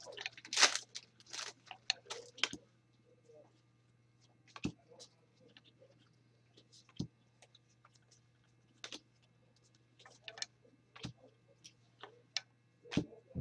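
Trading cards being handled: a quick run of card flicks and rustles in the first couple of seconds, then scattered light clicks and taps of cards, with a faint steady hum underneath.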